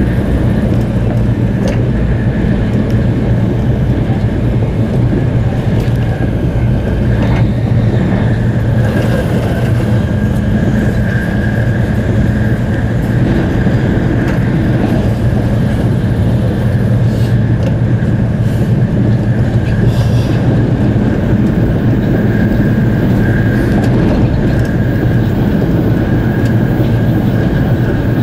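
Tokaido Shinkansen bullet train running at speed, heard inside the passenger cabin: a steady dense rumble with a thin, steady high whine over it. A few faint clicks come through now and then.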